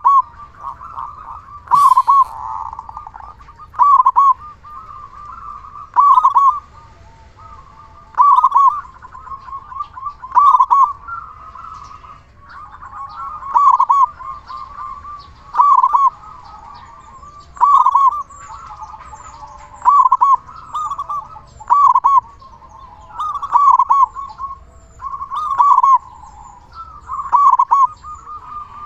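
Zebra dove (perkutut) singing. It repeats its loud cooing phrase about every two seconds, with softer cooing between the phrases, and there is a single sharp click about two seconds in.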